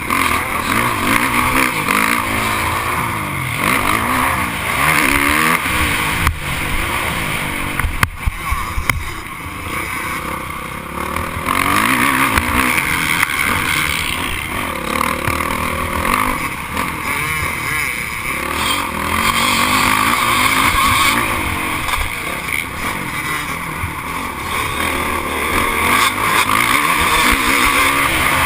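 Several motocross dirt bikes racing, their engines revving up and falling back again and again as they accelerate and shift, overlapping continuously.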